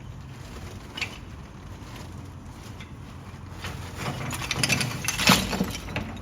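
A heavy truck's engine running steadily, with a sharp knock about a second in. A burst of clattering and cracking builds from just before four seconds, peaks a little after five seconds, then dies away.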